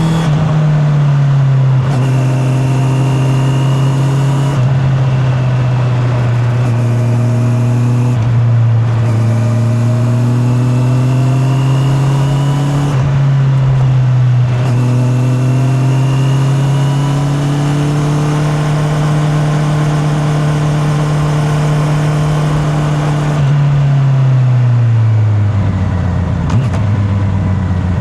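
Honda CB650R's inline-four engine running under way, its pitch climbing and dropping several times as the rider works the throttle and gears. Near the end it rolls off and the engine note falls steadily as the bike slows.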